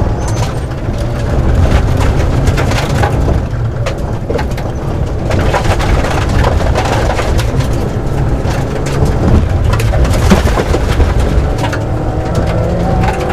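Rally car driven hard on a gravel forest stage: the engine revs up and down through the gears while stones and gravel clatter against the underbody in a dense patter.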